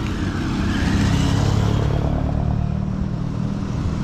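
Motor vehicle engine running steadily with road noise while travelling along a highway.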